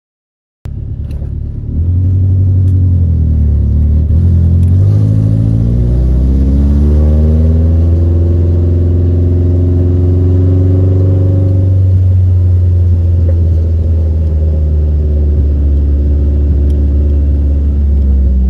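Nissan 240SX engine and exhaust heard from inside the cabin while driving slowly: a loud, deep drone. Its pitch climbs a few seconds in, holds, then drops about twelve seconds in and settles.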